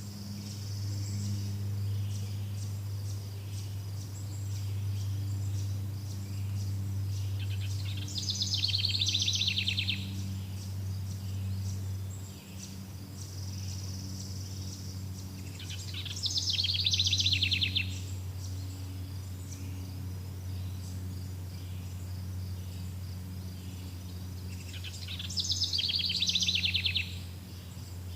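Forest birdsong over a continuous high insect trill: one bird sings a rapid, rattling phrase three times, about every eight seconds, over a steady low hum.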